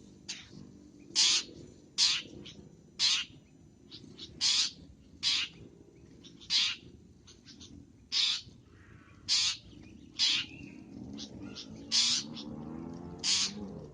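Long-tailed shrike (cendet) giving short, harsh, rasping calls, about one a second, over a faint low background hum.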